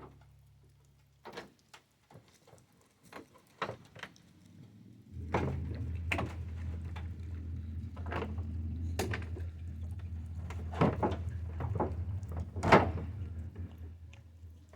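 Scattered clicks, knocks and clunks of hand tools and metal parts being worked on a truck's radiator. A low steady hum comes in about five seconds in.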